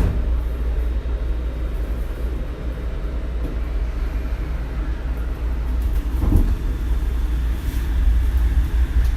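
Shonan Monorail suspended monorail car running, heard from inside the cabin: a steady heavy low rumble with a brief knock about six seconds in, growing slightly louder toward the end.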